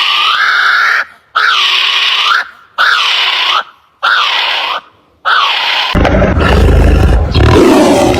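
An animal's harsh calls, five in a row about a second apart, followed about six seconds in by a loud, deep, rough roar.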